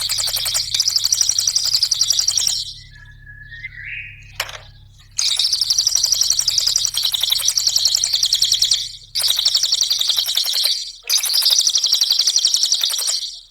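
Cililin songbird singing long, very fast, rattling trills in several runs broken by short pauses, with a softer, lower warbling note about three seconds in.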